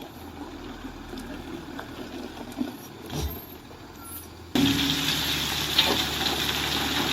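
Heavy vehicle engine running steadily in the background with a few faint knocks, then about four and a half seconds in a sudden switch to a much louder, even rushing noise.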